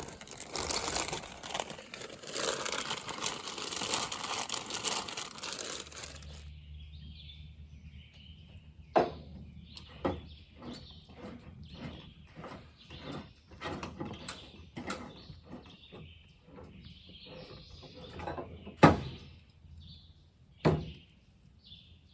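A steady rushing noise for about six seconds that stops abruptly, then small birds chirping, with a few sharp knocks, the loudest near the end.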